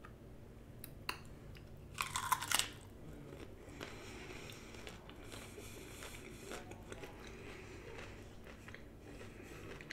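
Person biting into a raw cauliflower floret with a loud crunch about two seconds in, then chewing it steadily.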